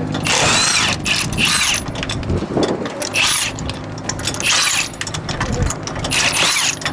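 Power tool, most likely a cordless impact wrench, run in about five short bursts roughly a second or so apart, each with a whining spin-up, over a low engine rumble.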